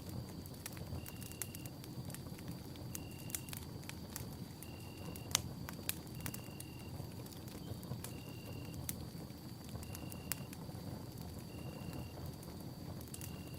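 Campfire crackling and popping, with sharp pops over a low steady rumble of burning; the loudest pop comes about five seconds in. Behind it are a faint steady high tone and a short high note that repeats about every two seconds.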